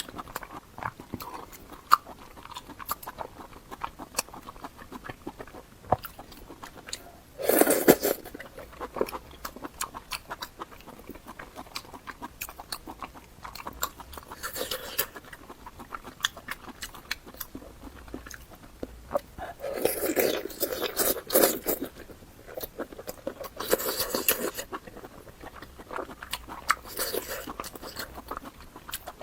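Close-miked eating: a person chewing lamb intestine noodles, with a steady run of short wet mouth clicks and several louder bursts of half a second to two seconds, the longest about 20 seconds in.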